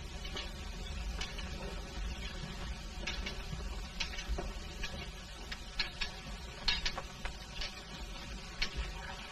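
Low steady hum with scattered clicks and crackles, more frequent in the second half: surface noise of an early sound-film soundtrack.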